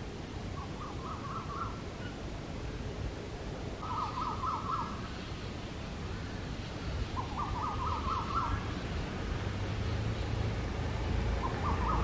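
A bird calling: a short burst of rapid, evenly spaced notes, repeated four times at roughly three-and-a-half-second intervals.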